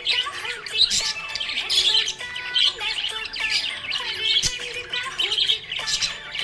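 Budgies chirping and squawking: a quick, continuous run of short high calls.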